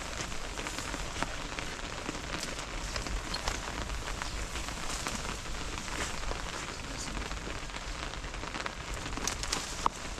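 Steady rain falling, with many small ticks of drops striking a surface and one sharper click near the end.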